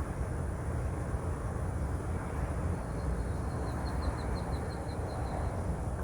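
Steady low outdoor rumble with a faint steady high whine. About halfway through, a bird gives a run of about a dozen quick high chirps, roughly four a second.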